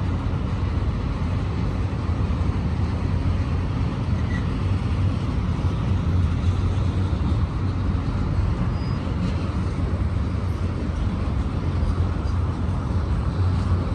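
Auto-rack freight train rolling past: a steady rumble of wheels on rail with a constant low hum.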